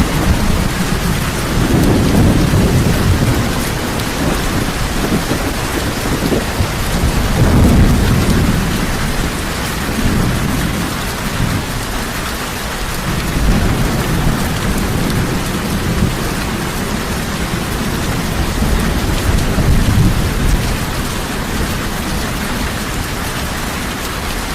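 Heavy rain falling steadily, with thunder rumbling low underneath in slow swells, loudest about two and eight seconds in.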